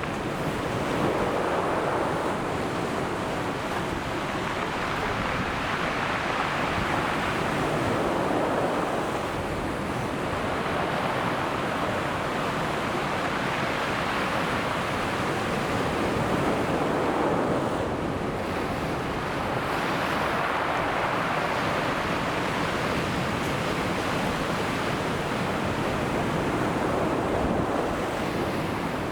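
Ocean surf breaking on the shore, a continuous wash of waves that swells and recedes every few seconds.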